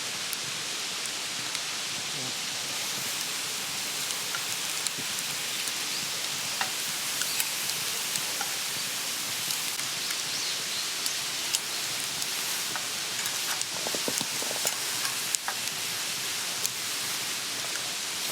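Meat sizzling on a grill over a wood fire: a steady hiss with scattered small pops and crackles.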